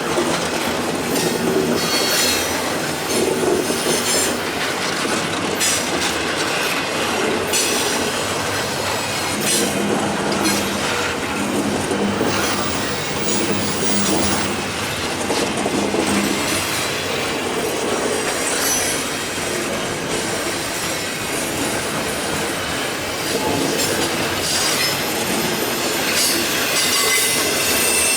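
Cars of a long freight train grinding slowly uphill past the listener, steel wheels clicking over rail joints while the wheel flanges squeal.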